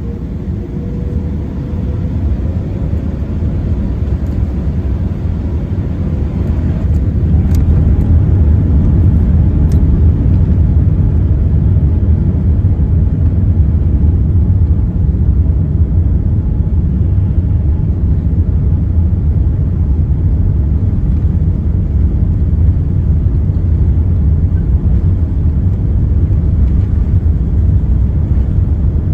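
Airbus A380 jet engines spooling up to takeoff thrust, heard from inside the cabin. A deep rumble with a faint rising whine builds over the first eight seconds or so, then holds steady and loud through the takeoff roll.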